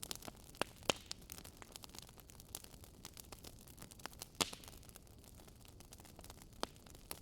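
Wood fire burning in a fireplace: irregular sharp crackles and pops over a soft hiss, with a few louder pops, the loudest about four and a half seconds in.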